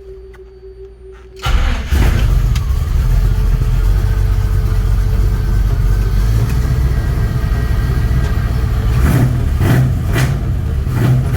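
A 383 stroker small-block V8 starts about a second and a half in and settles into a steady idle. It is revved in several short blips near the end.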